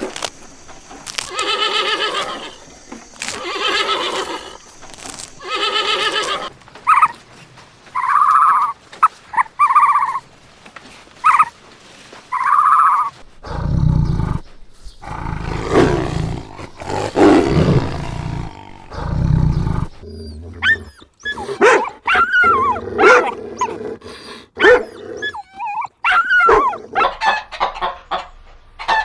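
A run of different farm animals calling one kind after another: first three long, drawn-out pitched calls, then a string of short clipped calls, then several deep, low calls, and near the end many quick chirping calls.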